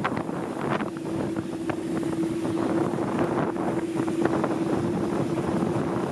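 Steady engine drone with a constant hum, mixed with wind buffeting the microphone.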